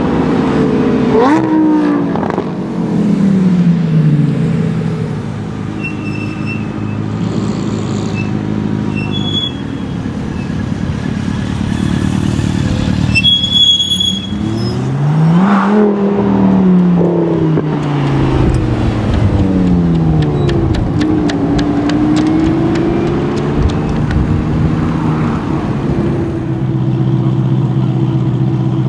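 Car engines revving and accelerating past, the engine note rising and falling several times, with an engine idling steadily near the end.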